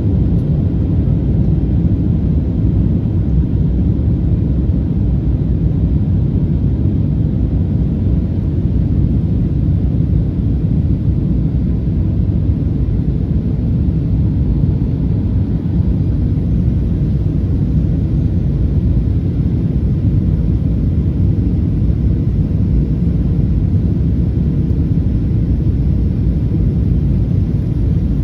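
Steady low rumble of a Boeing 737-800 heard from inside the passenger cabin, holding an even level and pitch throughout.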